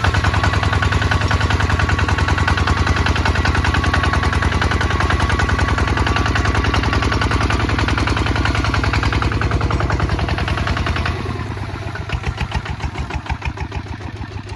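Kubota ZT 155 DI single-cylinder diesel engine running with a fast, even chug. About 11 seconds in it drops to a lower, slower chugging and fades near the end, as the engine is throttled back.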